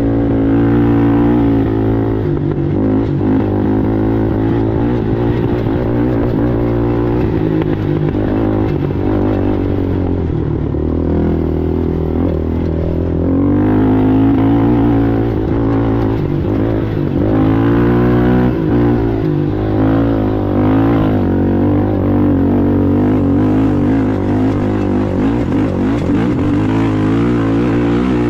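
Sportsman-class racing ATV engine running hard, its revs rising and falling again and again with throttle changes.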